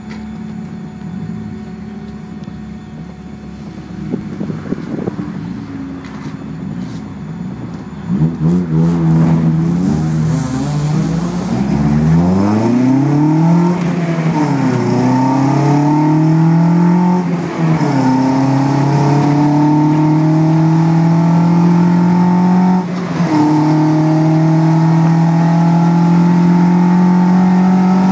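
Car engine heard from inside the cabin, idling at first, then pulling away hard about eight seconds in and accelerating through the gears, its pitch climbing and dropping back at each of about three upshifts.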